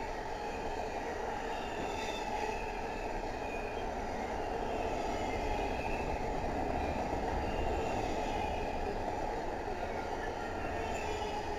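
Double-stack intermodal container train rolling past: a steady rumble of wheels on rail, with faint high squeals now and then.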